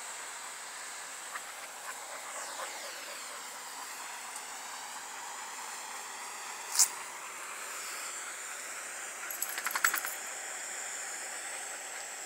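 Light metallic clinking over a steady hiss: one short jingle about seven seconds in, then a quick run of clinks a couple of seconds later.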